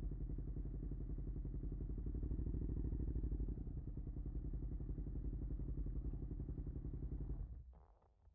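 Suzuki SV650's V-twin engine running at steady low revs with an even pulsing beat, then switched off about seven and a half seconds in, after which it falls quiet.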